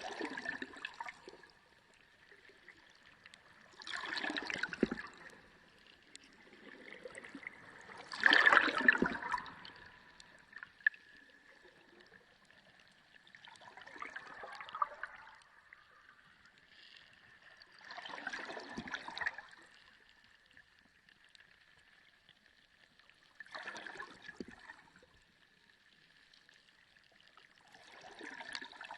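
Water surging in swells about every four to five seconds, seven in all, the loudest about eight seconds in, over a faint steady high tone.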